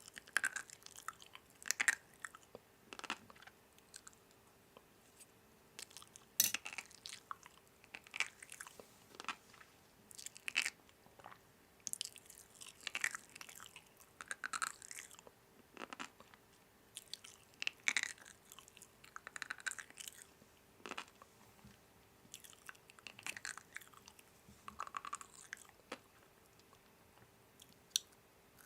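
Someone chewing and crunching crisp food close to the microphone, in irregular bouts of short crackly bites, over a faint steady hum.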